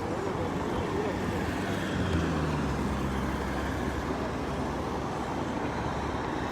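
Road traffic noise, with a vehicle engine running close by from about two seconds in and fading toward the end.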